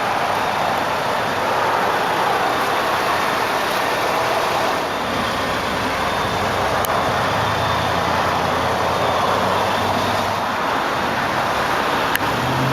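A 2009 Scion xB's 2.4-litre four-cylinder idling, heard under a steady outdoor haze of road traffic. A low hum swells about five seconds in and fades again, and two sharp clicks come, one near the middle and one near the end.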